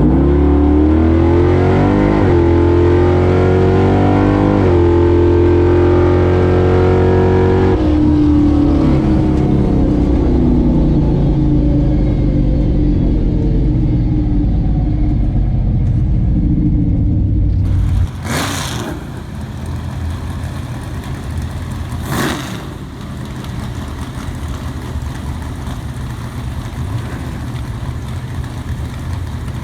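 Big-block Mopar Barracuda drag car accelerating hard, its revs climbing and stepping through gear changes, then coming off the throttle with falling revs. About eighteen seconds in, it cuts to a quieter, steady engine sound with two sharp knocks.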